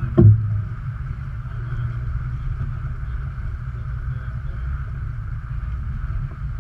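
Wind rumbling on the microphone over water rushing steadily along a sailboat's hull, with a short knock just after the start.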